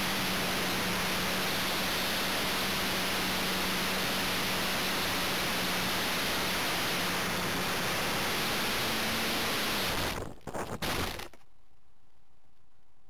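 Wind rush and the electric motor's steady low hum of a Multiplex Blizzard RC plane, heard through its onboard camera as a loud, even hiss. About ten seconds in, the sound breaks up for a second and then cuts off abruptly, leaving only a faint electronic hum: the plane crashing.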